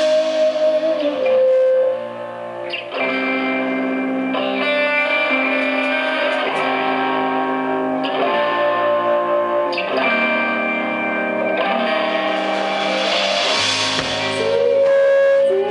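Live rock band playing an instrumental passage led by electric guitar, with sustained chords that change about every two seconds.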